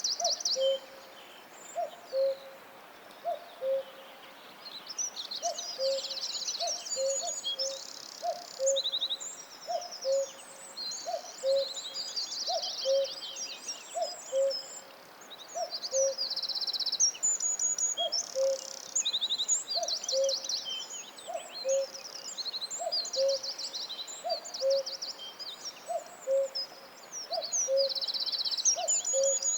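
Woodland birdsong: several songbirds sing high chirps and rapid trills, over a low two-note call, high note then lower note, repeated about once a second.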